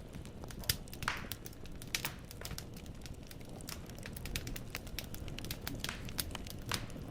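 Wood fire burning in a fireplace: steady low rumble with irregular sharp crackles and pops of burning logs, a few louder snaps scattered through.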